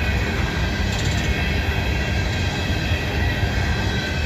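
Empty freight cars rolling past on the rails: a steady rumble of wheels and cars, with faint steady high-pitched tones from the wheels over it.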